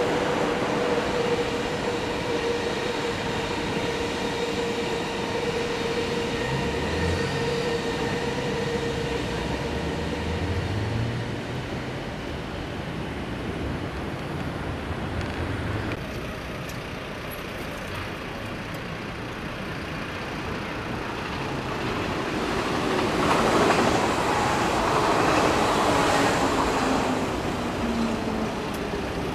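Deutsche Bahn ICE high-speed train running away along the tracks, a steady electric whine fading out over the first ten seconds. About 23 seconds in, a Berlin S-Bahn train passes close by, and the sound grows louder with wheel-on-rail noise and a falling whine.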